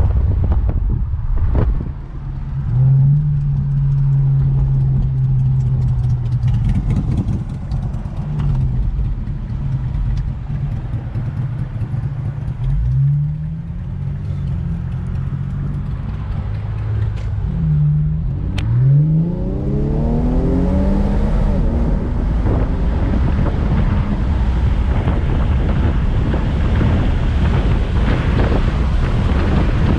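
Infiniti Q50's twin-turbo 3.0-litre V6 with a muffler delete and AEM intakes, running with a steady low note and climbing in pitch twice as it accelerates, about 12 and 19 seconds in. From about 20 seconds in a steady wind rush runs under the engine.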